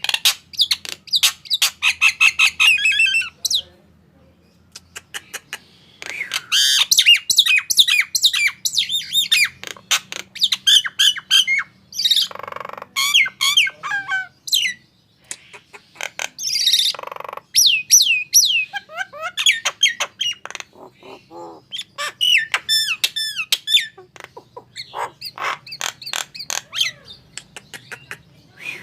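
Male Nias hill myna calling in a rapid stream of loud bending whistles, squawks and chattering notes, with a pause of about two seconds early on and a brief one around the middle.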